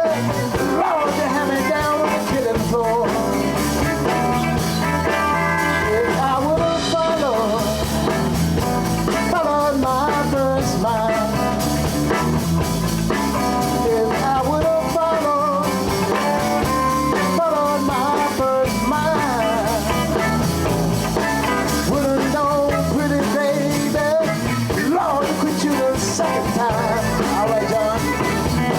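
Live blues band of drums, electric guitars, violin and bass playing a song without a break, with lead lines bending in pitch over a steady rhythm.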